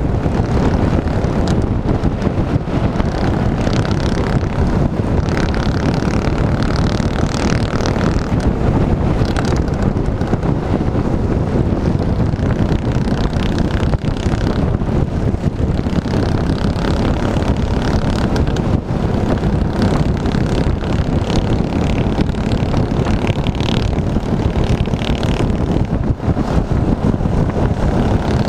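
Small minibike engine running steadily, a continuous drone over a heavy low rumble.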